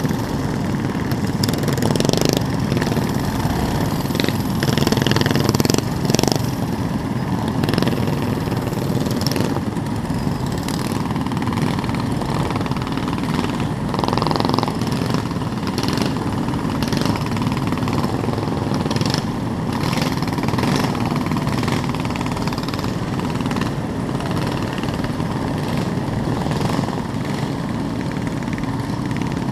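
Small mini bike engines running, a steady engine drone with no break.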